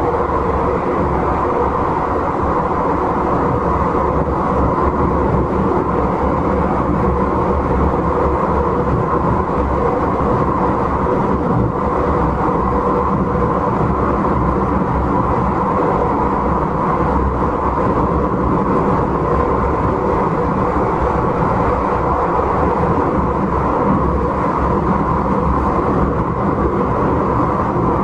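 Izukyu 8000 series electric train running along the line, heard from on board: a steady rumble of wheels, traction motors and car body at an even level, with no rise, fall or distinct events.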